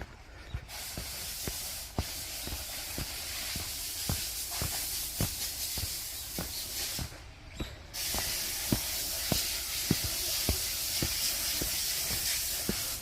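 Footsteps of a hiker walking at a steady pace, about two steps a second, over a steady hiss that drops out briefly about seven seconds in.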